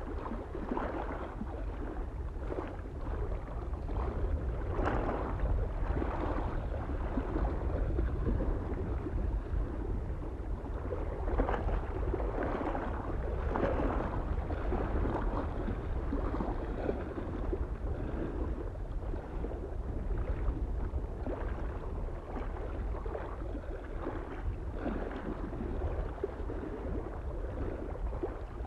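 Small waves lapping irregularly against a mountain lake shore, each splash coming and going every second or so, over a steady low rumble of soft wind.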